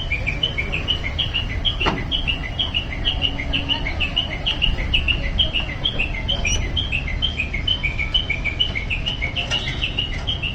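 Small birds chirping rapidly and continuously, several short high chirps a second, over a steady low rumble.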